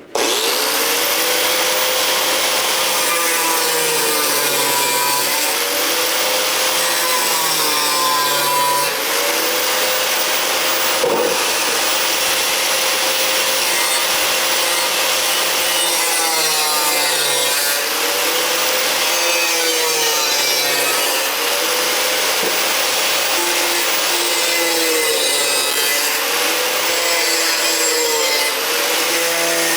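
Grinder with a cutoff wheel cutting slots into metal bar, a continuous loud grinding whose motor pitch dips and recovers every few seconds as the wheel bites into the cut.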